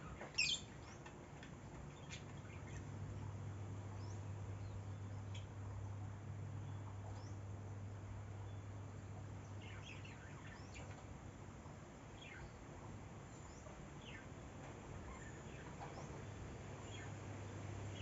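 Birds giving short, scattered high chirps, the loudest one right at the start, over a steady low hum.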